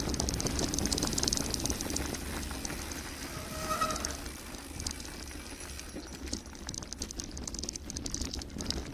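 Mountain bike descending a gravel forest road at speed: tyres crunching and hissing over gravel, the bike rattling over bumps, with a steady low rumble. A brief squeal about four seconds in, then sharper clicks and rattles near the end.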